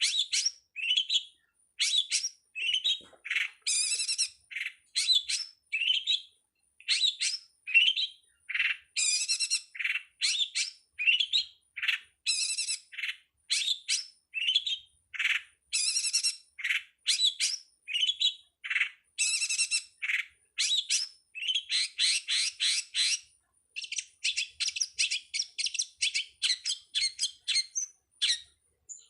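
Long-tailed shrike (pentet) singing a fast, continuous run of short, harsh chattering notes, about three or four a second, with barely a pause. A faint steady high whine runs underneath.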